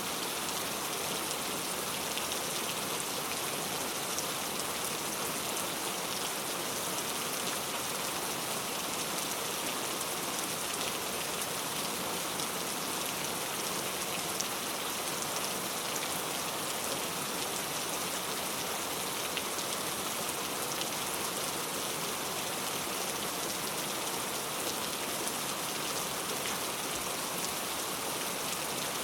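Steady rain falling, a continuous even hiss with fine scattered drop ticks.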